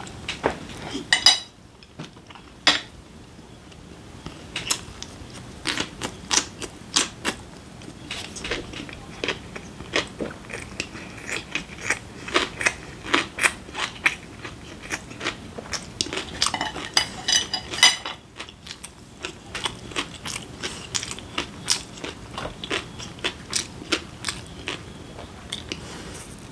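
Close-miked chewing and mouth sounds of a person eating dumplings: a steady run of short clicks and smacks.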